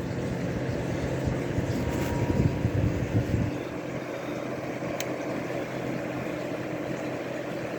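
Pelonis space heater's fan running steadily, a hum with rushing air. About three and a half seconds in the low rumble of the air drops away, and a single sharp click comes near five seconds in.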